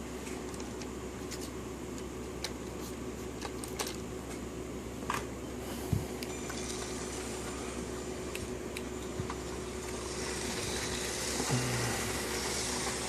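Lego Power Functions train motor running along the track, a steady whir with scattered light clicks, growing louder near the end.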